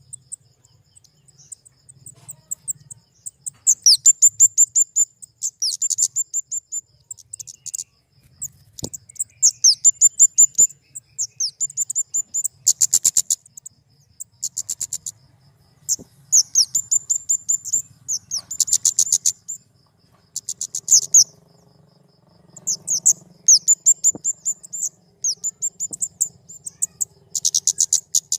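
Flowerpecker (kemade) singing: volleys of rapid, thin, very high-pitched chirps, each volley about a second long, repeated over and over with short gaps.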